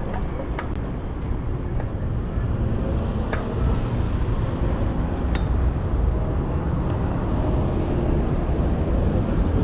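Steady low rumble of road and traffic noise while riding an electric bicycle through city streets, with a few sharp clicks.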